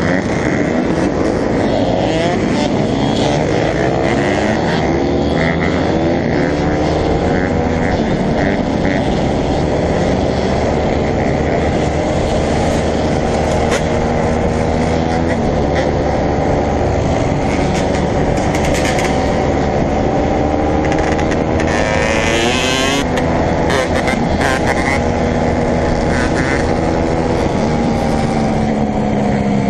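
Several dirt bike engines running and revving together, their pitches rising and falling over a steady low engine drone, with one sharp high rev about two-thirds of the way through.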